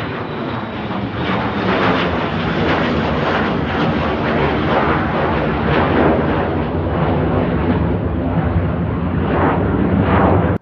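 Airliner departing at takeoff power: a loud, rough engine rumble with crackle, rising over the first couple of seconds, holding steady, then cutting off abruptly at the end.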